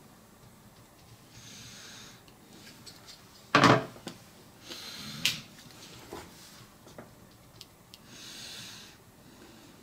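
Three soft nasal breaths close to the microphone, with a loud knock about three and a half seconds in and a few light clicks and taps of small objects being handled.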